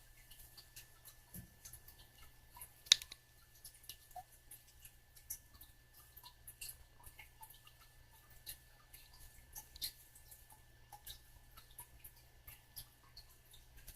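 Monk parakeet nibbling and mouthing at a finger with its beak: soft, irregular little clicks and ticks, with one sharper click about three seconds in.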